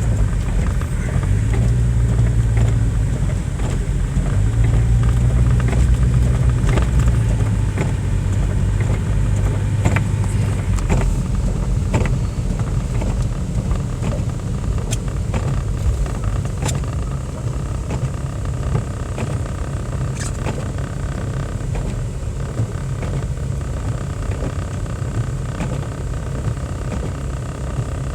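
Car driving on snowy streets, heard from inside the cabin: a steady low rumble of engine and tyres. The engine's hum stands out for the first ten seconds or so, then eases into a more even rumble.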